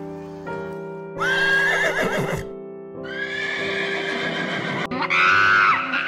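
Three long, loud animal calls with wavering pitch over steady background music; the last call bends downward.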